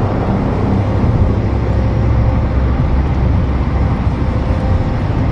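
Steady low rumble of a car on the move, engine and road noise with a few faint steady tones.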